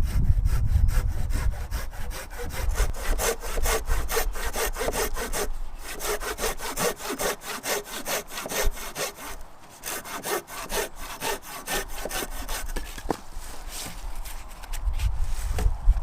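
Hand saw cutting through wood in steady back-and-forth strokes, several a second, with a brief slackening about ten seconds in.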